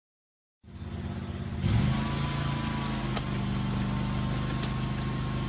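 Semi-truck's diesel engine idling: a steady low hum that starts about half a second in and settles into an even tone a second later, with two faint ticks.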